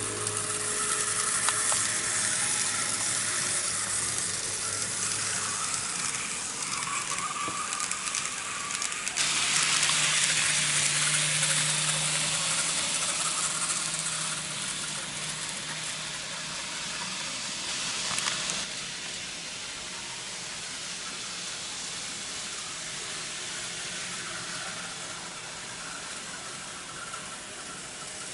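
N-gauge model trains running on a layout: a steady hissing rattle of small motors and wheels on track. About nine seconds in it grows louder, with a low hum under it, and drops back about ten seconds later as the train passes close by.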